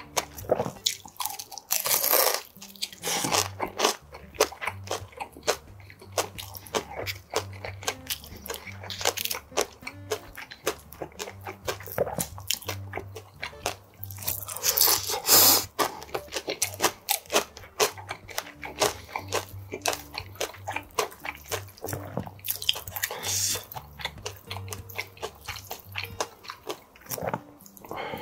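Close-miked chewing of crispy pan-fried dumplings, with repeated crunchy bites and wet mouth sounds. Soft background music plays underneath.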